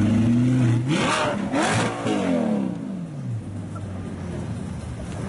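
Sports car engine idling, then revved sharply about a second in. The revs fall back over the next two seconds and it settles to a quieter idle.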